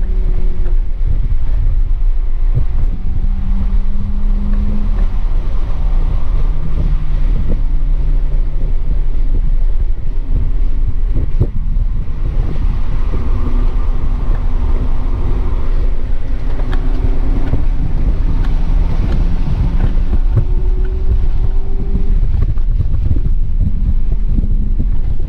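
Cabin sound of a 2007 BMW 328i's inline-six engine running at mid revs under way on track, its pitch shifting up and down several times with throttle and gears. A steady low rumble of road and wind noise runs underneath.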